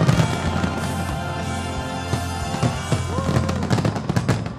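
Fireworks display of aerial shells bursting and crackling over background music, the bangs coming thick and fast near the end.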